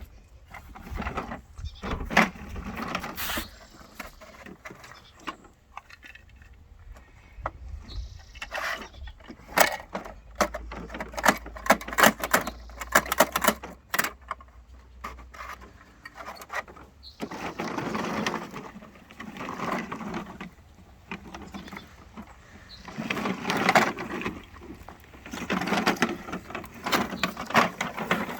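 Garbage truck at work collecting trash: a low engine rumble under a run of sharp bangs and rattles in the middle, then several louder bursts of mechanical noise a second or two long.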